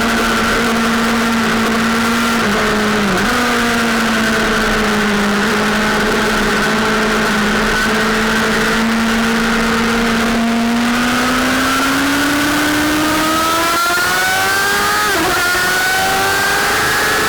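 Sportbike engine running at a steady pitch for about ten seconds, then revving higher as the bike accelerates. Near the end the pitch drops sharply at an upshift and starts climbing again.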